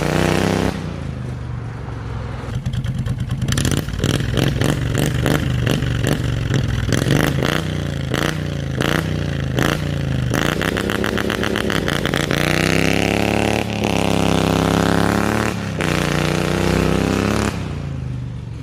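Engine running and being revved repeatedly, its pitch rising and falling several times. A rapid series of sharp cracks comes through the middle of the revving.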